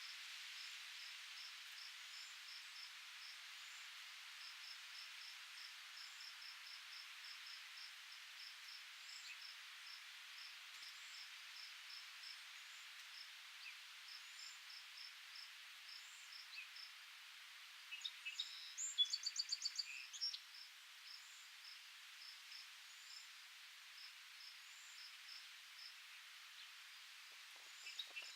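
Natural outdoor ambience: a steady high hiss with a small high chirp repeating about three or four times a second, and a songbird singing a quick trilling phrase about two-thirds of the way through and again near the end.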